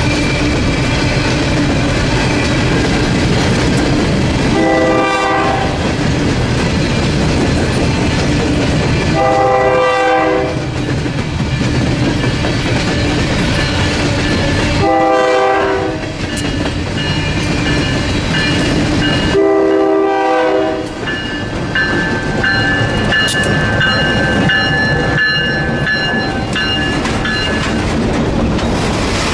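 EMD SW9 switcher locomotive working as it approaches, sounding its horn in four blasts about five seconds apart. As its cars then roll by, steady high-pitched wheel squeal and clicks over the rail joints.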